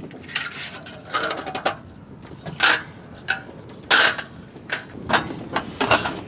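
Cooking gear being handled and set out: a string of irregular clicks, knocks and clatters, a few with a brief metallic ring.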